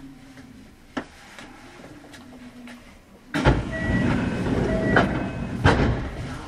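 A standing train's carriage quiet, with a single click about a second in; then, a little past three seconds in, another train's loud rumble and rattle starts suddenly, with short squealing tones over it, and fades near the end.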